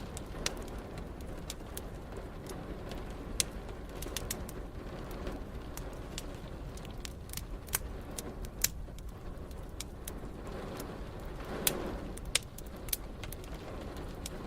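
Wood fire crackling, with sharp pops at irregular intervals over a steady low rushing background. A short, fuller swell comes in about twelve seconds in.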